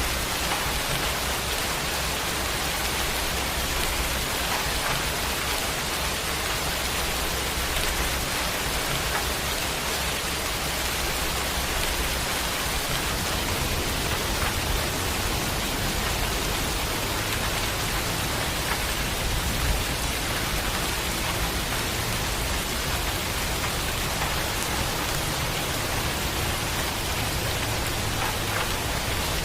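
Steady rain falling, an even hiss with a low rumble underneath that grows stronger about halfway through.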